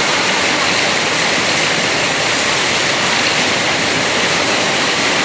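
Heavy rain pouring down in a rainstorm, a loud, steady hiss.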